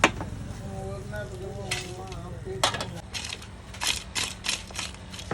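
Metal spatula stirring and scraping chicken in a frying pan, with sizzling. It starts with a sharp clang, and in the second half comes a run of quick scrapes, about two a second.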